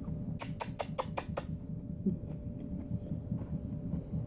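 A quick run of about six light clicks within a second, over a low rumble and a faint steady hum.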